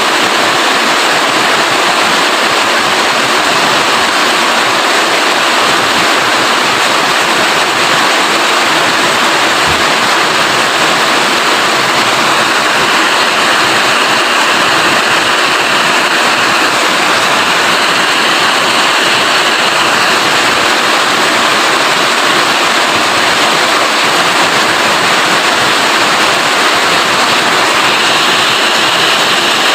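Rain falling steadily, a dense, even hiss without breaks.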